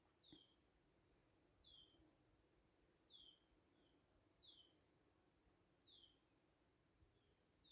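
Faint bird calling over and over in a high two-note phrase: a short level whistle, then a falling note. The phrase repeats about every second and a half.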